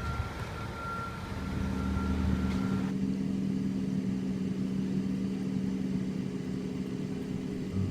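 Steady engine hum inside an airliner cabin during the approach to landing. A thin high tone stops about three seconds in, leaving a low, even drone.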